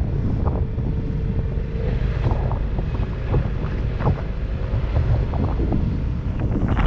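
Wind buffeting the microphone of a helmet-mounted camera on a moving motorcycle, with the Honda CBR250R's single-cylinder engine running steadily underneath.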